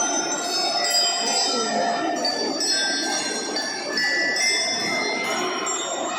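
Drum band bell lyra (glockenspiel) section playing a slow melody, struck metal bars ringing on one note after another.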